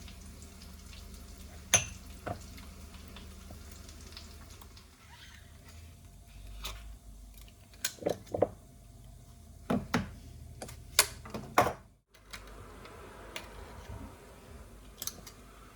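Dishes and utensils clinking and being set down, a dozen or so sharp separate knocks and clicks over a low steady hum, with a brief break about twelve seconds in.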